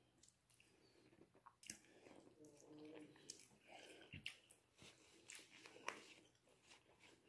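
Faint chewing and lip smacking of someone eating king crab meat, with scattered soft clicks and crunches.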